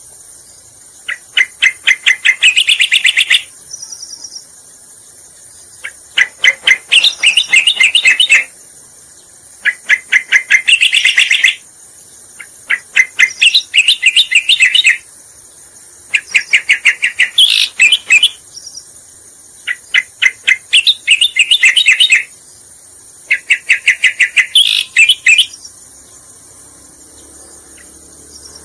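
Cica koreng (cucak koreng) bird song played as a lure call: seven bouts of fast, rapidly repeated chattering notes, each lasting about two seconds and coming every three to four seconds. A steady high insect-like hiss runs underneath.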